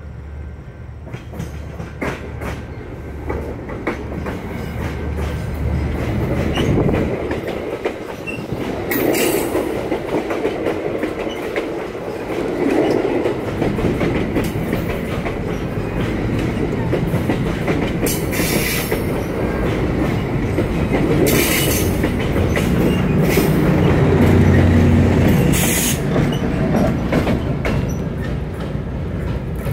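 Bi-level commuter train passing close by: the steady rumble and clatter of the coaches' wheels on the rails, with a few short high-pitched bursts along the way. A low diesel engine drone swells in the last few seconds as the locomotive pushing at the rear goes by.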